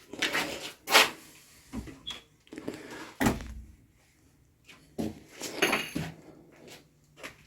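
Irregular knocks and bumps in a small boat cabin, about seven in all, the loudest about a second in, some with a dull low thud, like doors or cupboards being handled and feet on the cabin floor.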